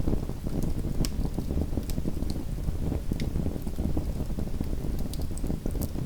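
Small wood fire in a fireplace crackling: a steady low rumbling hiss with scattered sharp pops and snaps.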